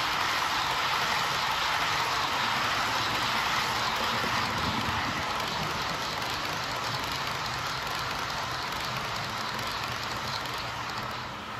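H0 scale model trains running on the layout: a steady rolling hiss and rattle of small wheels on track, easing slightly near the end.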